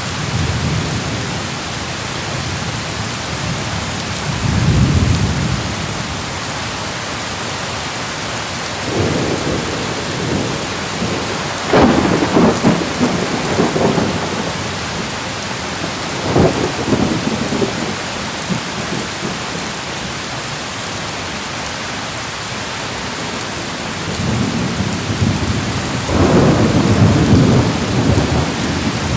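Thunderstorm: steady rain hissing throughout, with several rolls of thunder. The sharpest and loudest clap comes about twelve seconds in, and a long rumble builds near the end.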